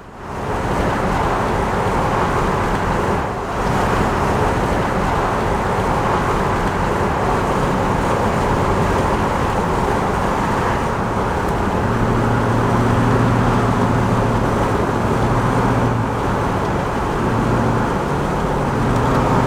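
A car being driven at speed: steady tyre and road noise, with a low engine hum that comes up about twelve seconds in.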